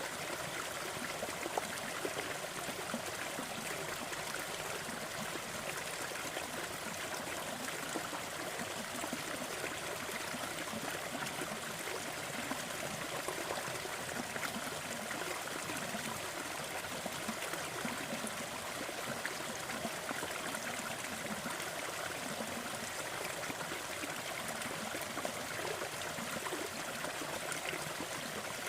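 Steady, even rushing noise with a few faint crackles and pops of a wood fire. It is a continuous sleep-sound mix of fireplace crackle and background noise.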